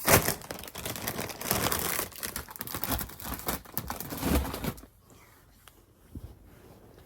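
A snack wrapper crinkling and being torn open, with a loud rip at the start and crackling for nearly five seconds before it stops abruptly.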